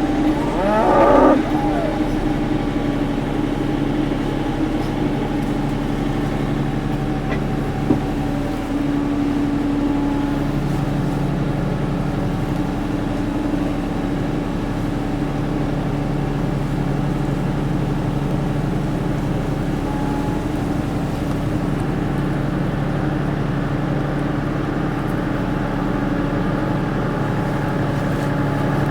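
Tractor engine running steadily, with a cow mooing once about a second in and a single sharp knock about eight seconds in.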